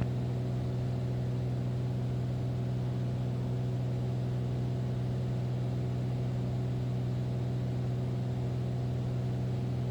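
Steady drone of a Beechcraft Bonanza's piston engine and propeller at a constant power setting in descent, a low unchanging hum.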